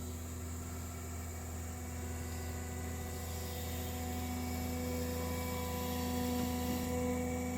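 An engine running at a steady speed: a constant low hum with a few steady tones above it that swell a little louder about five to seven seconds in.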